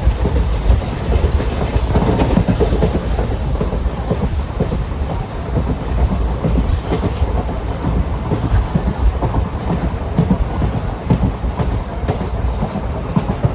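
Passenger train running at speed, heard from on board: a steady heavy rumble with the clatter and knock of wheels over the track.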